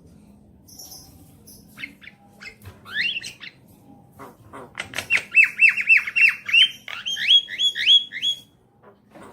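Javan myna calling: harsh squawks and clicking notes, then a fast run of loud, sharp whistled notes, each sweeping up in pitch, about three a second, which stops shortly before the end.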